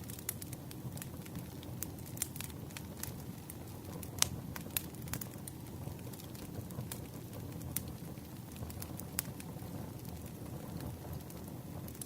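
Campfire burning: a steady low rumble of flames with irregular sharp crackles and pops from the burning wood, the loudest pop about four seconds in.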